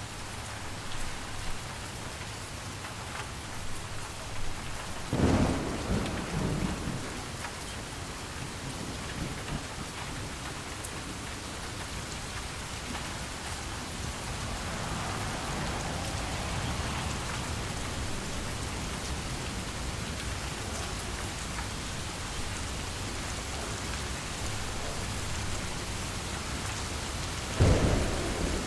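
Steady heavy rain with thunder: a loud low rumble of thunder about five seconds in and another near the end, and a softer swell of rain in the middle.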